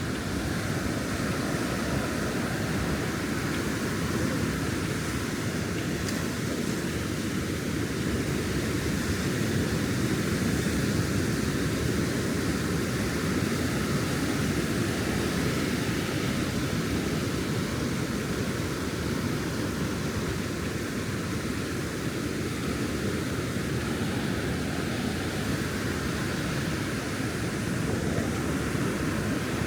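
Steady roar of ocean surf breaking along the beach, a continuous rushing noise without distinct individual waves.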